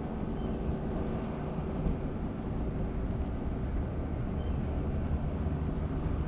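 Steady low rumble of vehicle noise with a faint hum, no distinct events.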